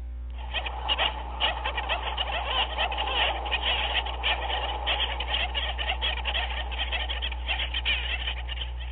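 A dense chorus of many animals calling at once, a steady mass of short overlapping calls and clicks with a low hum beneath.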